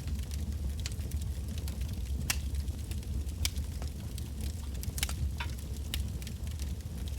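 Wood bonfire burning, with irregular sharp crackles and pops from the burning logs over a steady low rumble of the flames.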